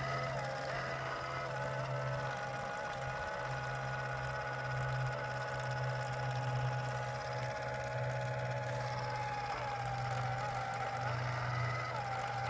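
A machine running steadily: a low, even hum with a higher whine above it that wavers slightly in pitch.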